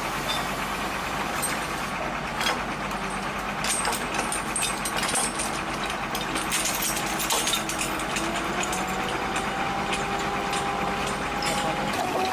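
An engine running steadily, with scattered clicks and clanks in the middle and a faint whine that rises slightly in the second half.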